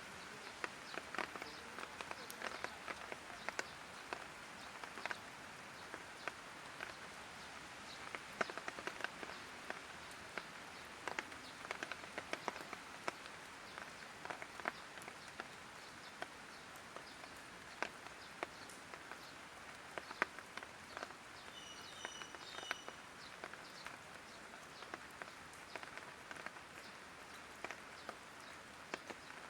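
Light rain falling, an even hiss with many scattered, irregular drop taps. A few short high chirps sound briefly about 22 seconds in.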